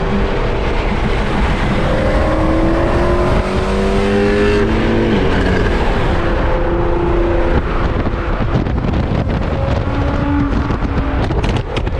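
Car engine accelerating, its pitch rising steadily for a few seconds and then dropping about five seconds in, over loud road and wind noise. A few sharp cracks come near the end.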